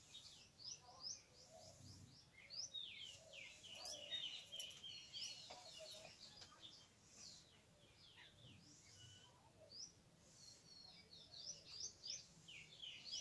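Faint, rapid chirping of small birds: many short, high chirps one after another, with a few soft scratches of a marker on paper.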